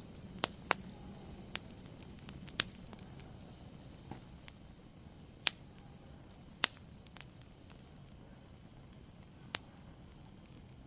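Wood fire burning in a fireplace, crackling: a low steady hiss broken by sharp, irregular pops from the burning logs, about eight loud ones.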